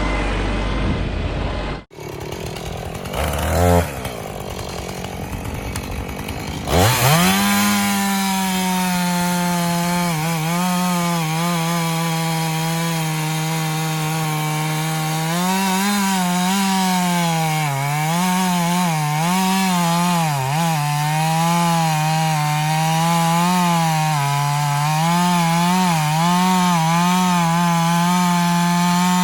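Two-stroke chainsaw revved up to full speed and cutting through a hardwood log, its pitch dipping and recovering over and over as the chain loads in the wood.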